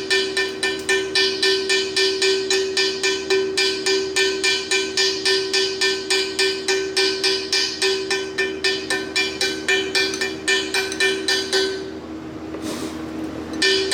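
A hammer peening a fresh weld on a cast iron casting, about three or four strikes a second, with the casting ringing at a steady pitch. The hammering stops near the end, leaving a short rustle.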